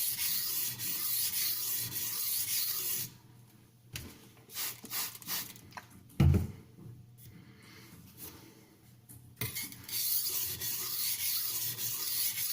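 Steel kitchen knife blade scraping back and forth on the wet 320-grit side of a silicon carbide sharpening stone, a steady gritty rasp. It stops after about three seconds, with a few light knocks and one dull thump, then starts again near the end.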